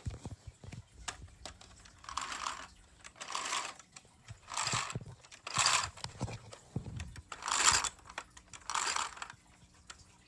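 A Lego pneumatic engine model being handled: small plastic clicks and rattles, with about six short, irregular rushes of hiss.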